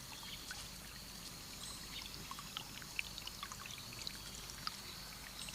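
Faint trickle of a small forest stream at the water's edge, with scattered small drips and ticks.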